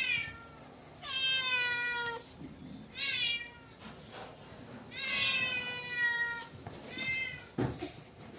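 Domestic cat meowing repeatedly: five meows, the second and fourth long and drawn out, the others short. A soft low thump comes near the end.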